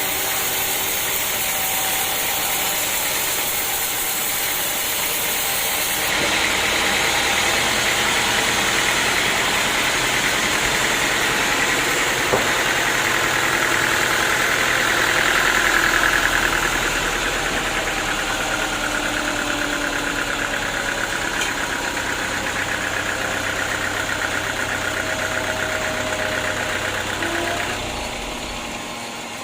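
Engine running steadily, its sound changing abruptly about six seconds in and falling away near the end.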